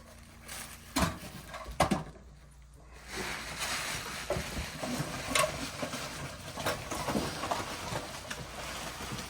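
Objects being handled and rummaged through in a box: a few sharp knocks at first, then steady rustling with many small clicks and taps.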